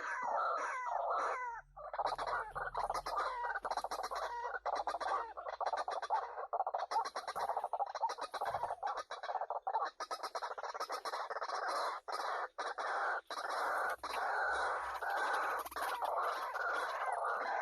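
White-breasted waterhen calls: a dense, continuous chorus of rapidly repeated croaking notes, with sliding notes in the first couple of seconds.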